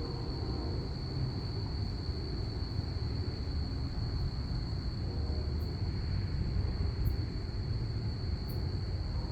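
Crickets chirping in a steady, high, unbroken chorus over a low, steady rumble of distant aircraft.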